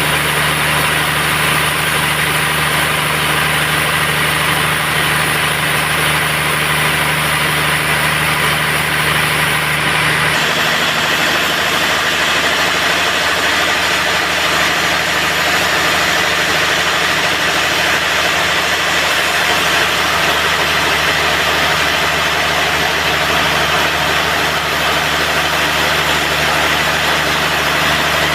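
Band sawmill running with a steady, loud machine drone. About ten seconds in the sound changes abruptly, its high hiss and low hum dropping away while the drone carries on.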